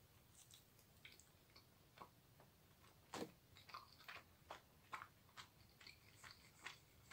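Faint chewing of a soft bread-and-mascarpone sandwich: scattered small wet mouth clicks, several a second, the strongest a little after three seconds in.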